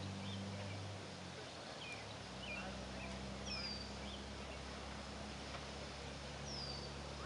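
Birds calling: scattered short chirps and two high, falling whistles about three seconds apart, over a steady low hum.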